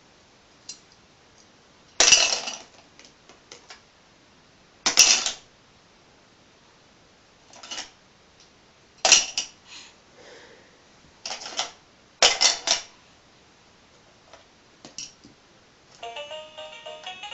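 Hard plastic toy pieces clattering and knocking against each other, about six sharp knocks with pauses between. Near the end an electronic toy tune starts to play.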